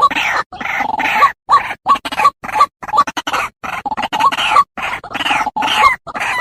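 White-breasted waterhen (ruak-ruak) calling over and over: loud, harsh croaking notes, about two a second with short gaps, as in a bird-lure call recording.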